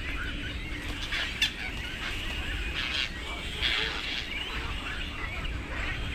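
Many birds calling at once: overlapping short chirps and clucks, with a sharp click about a second and a half in and two louder rasping calls around the middle, over a steady low rumble.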